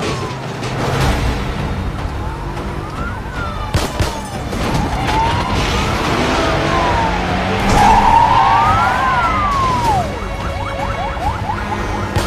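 Film car-chase soundtrack: police sirens wailing up and down over the steady rumble of car engines, with a few sharp knocks. The siren grows loudest about eight seconds in.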